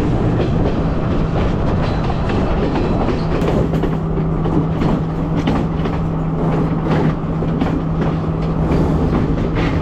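Passenger train running along the track, a steady rumble with the wheels clicking over rail joints. A steady low hum joins it about three seconds in and fades near the end.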